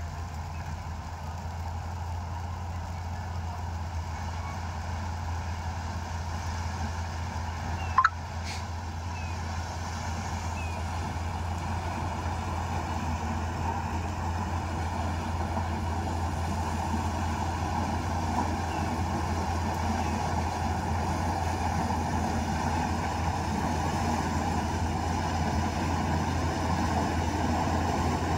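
Combine harvester running steadily while harvesting maize, a deep engine drone that grows gradually louder. A single sharp click with a brief rising squeak cuts through about eight seconds in.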